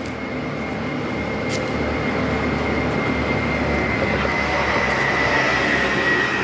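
Loud motor-vehicle noise from the road, building steadily, with a thin high whine that drops slightly in pitch near the end.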